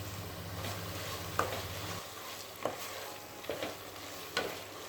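Onion-tomato masala with herbs sizzling in a pan while it is stirred, with four sharp knocks of the spoon against the pan. A low hum in the background stops about two seconds in.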